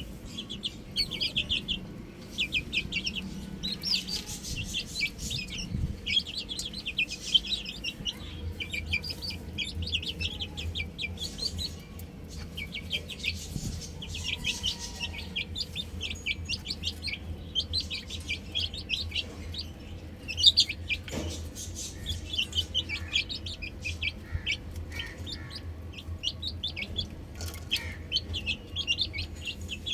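Chicks peeping without a break: many short, high chirps in quick runs, over a low steady hum. A single sharp knock about two-thirds of the way through.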